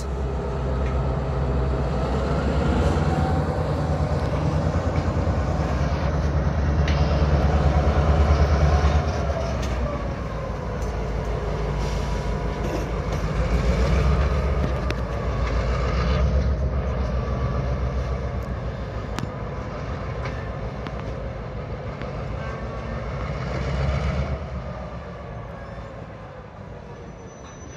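LTEX GP38 switcher locomotive's EMD two-stroke diesel engine running, its rumble swelling and easing several times as the locomotive works, with scattered clicks. It fades away over the last few seconds.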